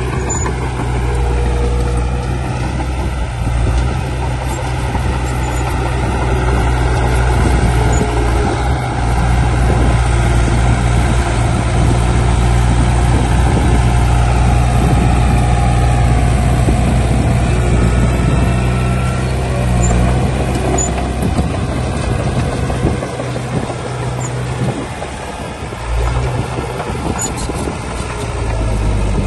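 Heavy diesel machinery engine running steadily with a deep hum and a fainter wavering whine above it.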